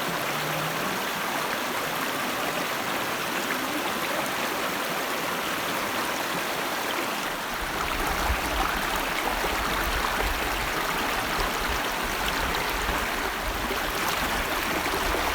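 Mountain river running steadily over rocks. About halfway through, a low rumble joins it.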